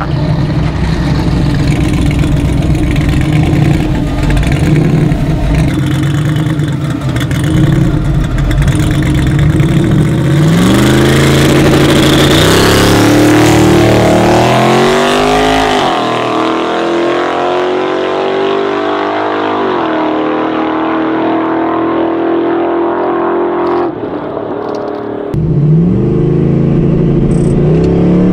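Twin-turbo LS V8 engine of a 4WD drag street truck running hard: a steady heavy rumble for about ten seconds, then accelerating, its pitch climbing, dropping and climbing again through gear changes, with another rise near the end.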